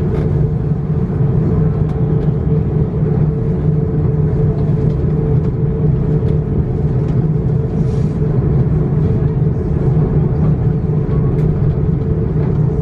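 Steady cabin drone of an Airbus A330-941's Rolls-Royce Trent 7000 engines at low thrust, with an even hum and no change in level, as heard inside the cabin while the airliner taxis.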